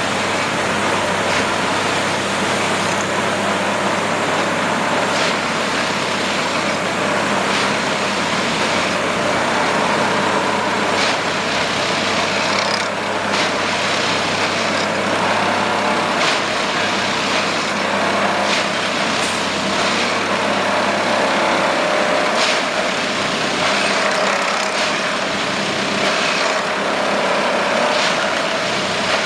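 Plasser & Theurer Duomatic 08-32 ballast tamper working track: its engine and hydraulics run loud and steady, with short knocks every couple of seconds as it goes through its tamping cycles.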